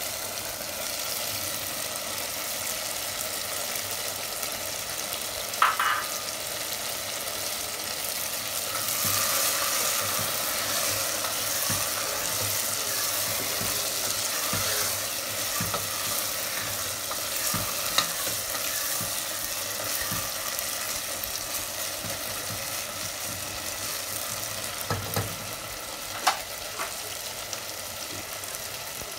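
Chicken pieces in a thick tomato sauce sizzling in a pan as they are stirred with diced green bell pepper. The sizzle grows louder about nine seconds in, and a few sharp knocks of the utensil against the pan are heard.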